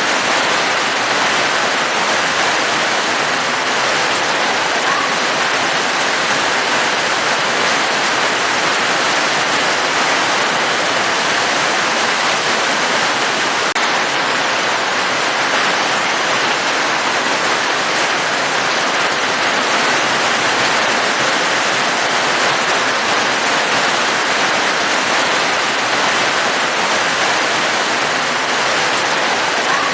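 Steady heavy rain, a dense, even rushing hiss with no breaks or separate drops standing out.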